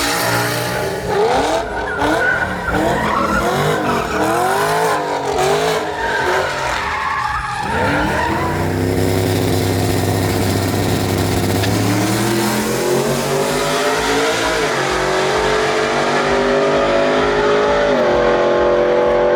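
Truck engine revving in quick blips, then held at high revs that climb in two steps, with the tyres spinning and squealing in a burnout.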